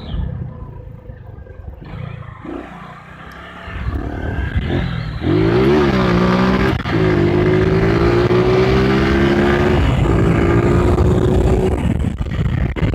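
Honda CG 150 single-cylinder motorcycle engine: it runs at low revs, then about five seconds in it revs up hard under acceleration. Its pitch climbs through two brief gear-change dips before it drops off near the end, with wind rushing over the microphone.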